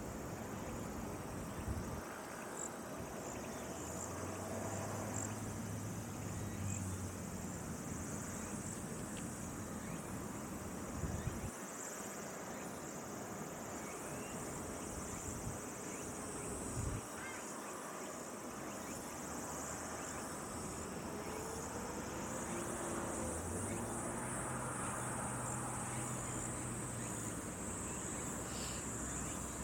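Insects chirping steadily in a thin, high-pitched band, with faint ticks through it. A low steady hum swells in twice, about four seconds in and again in the last third, and there are two soft knocks, about a third and just over half of the way through.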